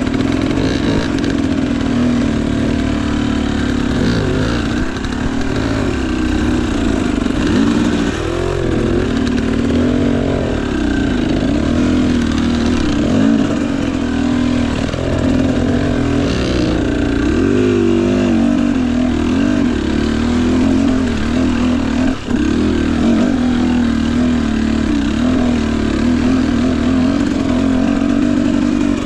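Husqvarna TE250i single-cylinder two-stroke dirt bike engine running under load, its revs rising and falling over and over as it is ridden slowly over rough ground.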